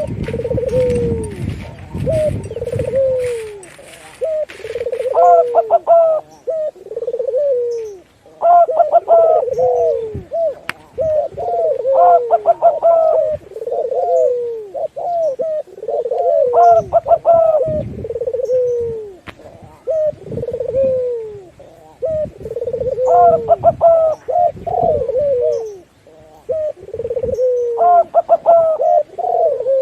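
Doves cooing: a run of falling coos, with a phrase of quick higher notes breaking in every three to five seconds. A low rumble sits under the first few seconds.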